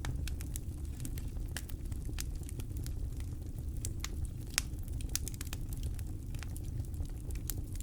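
Campfire crackling: irregular sharp pops and snaps of burning wood, one louder pop about halfway through, over a steady low rumble of the flames and wind.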